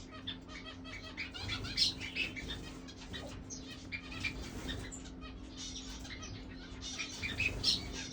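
Many small cage birds chirping in quick, irregular peeps, with a steady low hum underneath.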